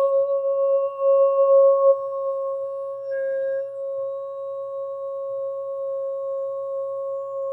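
Singing bowl sounding one long, steady tone that starts suddenly at the beginning, with a fainter overtone above it; the tone is slightly rougher for the first two seconds, then rings evenly.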